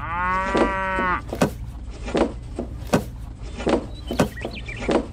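Plastic toy pomegranates being dropped one by one into a plastic toy trailer: sharp knocks about every three quarters of a second. A short pitched call, falling at its end, opens the first second.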